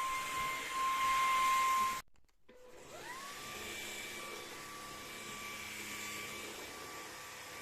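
Vacuum cleaner running with a steady whine, cut off abruptly about two seconds in; after a brief silence a motor whines up in pitch to speed and runs on steadily, quieter than before.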